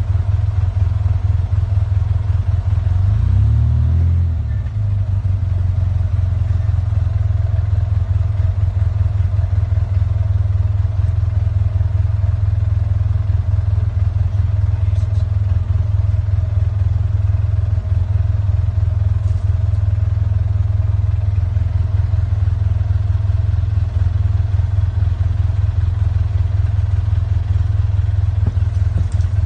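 A motor engine running steadily at a low idle, with a brief shift in pitch about three to four seconds in.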